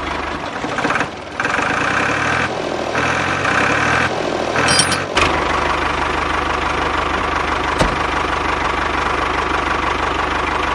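An engine runs steadily with a fast, regular knocking beat. Its sound shifts pattern a few times in the first five seconds, then settles into an even run.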